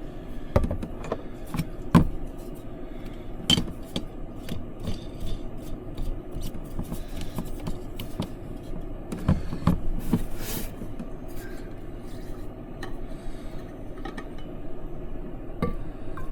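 Dishes and utensils being handled: scattered clinks, knocks and scrapes over a steady low hum.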